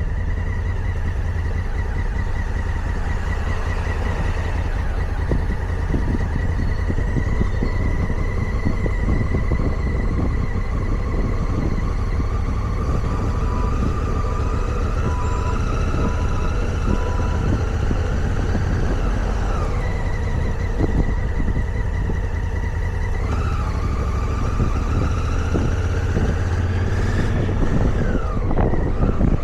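Motorcycle engine running at low town speed under a steady rumble, its pitch climbing slowly and then dropping sharply about two-thirds of the way through, as at a gear change, before climbing again.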